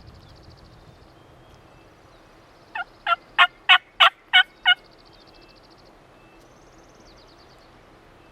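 A series of seven loud turkey yelps, evenly spaced at about three a second, over faint high songbird trills.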